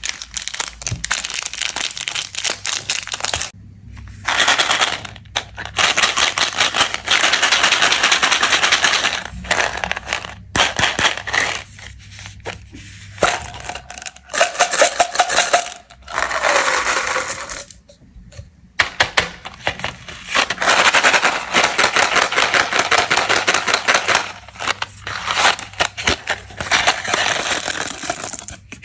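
Plastic candy wrappers being crinkled and torn open, in bursts of dense crackling separated by short pauses.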